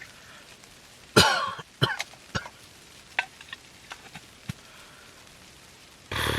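A person coughing: one loud cough about a second in and another near the end, with a few short sharp pops in between.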